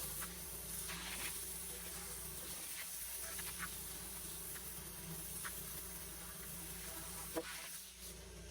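A small engine running steadily with a buzzing drone and a high hiss, a few faint clicks, and a sharp knock near the end.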